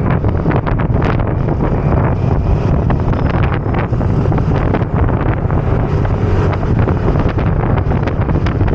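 Heavy wind buffeting on the microphone of a moving scooter, a loud, uneven low rumble with gusty surges throughout.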